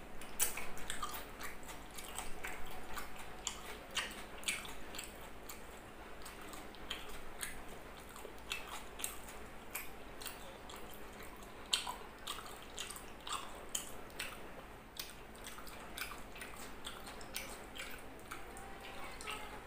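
Close-up chewing of a mouthful of grilled pork and rice, with many small irregular mouth clicks and smacks.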